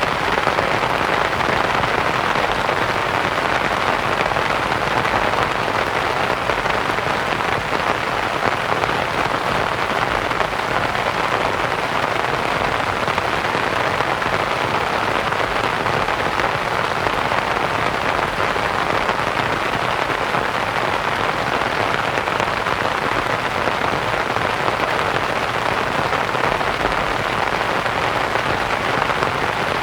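Steady rain pattering on a canvas tent, blended with soft white noise: an even, unbroken hiss.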